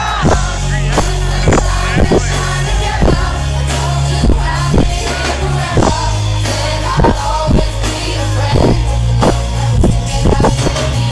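Live pop music over a concert PA: a heavy bass line and a steady drum beat, with a woman singing at times over it.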